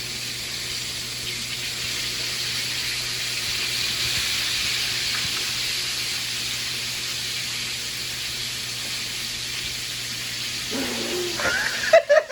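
Kitchen tap running in a steady hiss. Near the end, a cat meows a few times.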